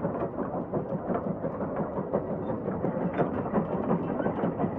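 Case 150 hp steam traction engine working hard under heavy draft load, its exhaust chuffing in a rapid uneven stream of beats.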